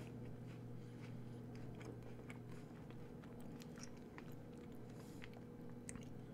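A person chewing a mouthful of caramel wafer biscuit with the mouth closed: faint, irregular soft crunches and small clicks. A low steady hum sits underneath.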